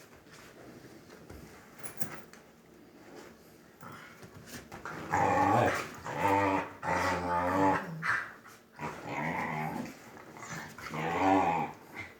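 A dog growling, about five drawn-out growls beginning about five seconds in, the last one the loudest.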